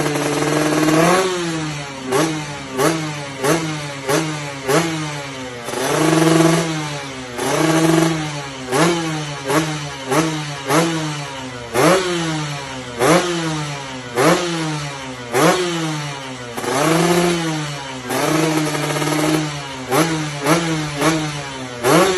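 Kawasaki Ninja SS two-stroke single-cylinder engine revved over and over through an aftermarket exhaust: about twenty quick throttle blips, each rising sharply in pitch and falling back, with a few held longer.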